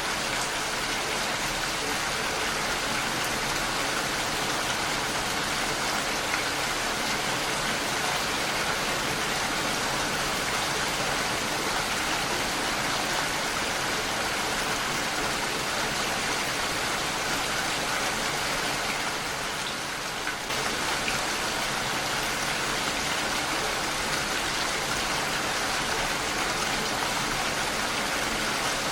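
Heavy rain falling steadily against a window pane, with a brief slight dip about two-thirds of the way through.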